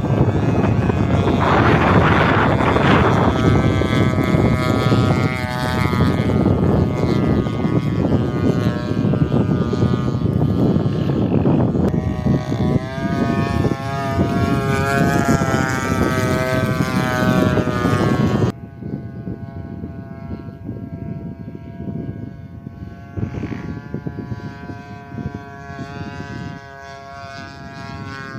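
Gasoline engine and propeller of a radio-controlled Cessna 182 model plane in flight, a steady buzzing drone that rises and falls in pitch. Heavy wind noise on the microphone covers it for the first two-thirds, then stops abruptly, leaving the engine quieter.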